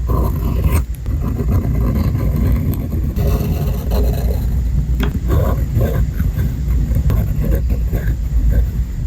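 Fountain pen nib scratching across paper in short irregular strokes, with a few sharp ticks and a steady low rumble of hand and paper handling.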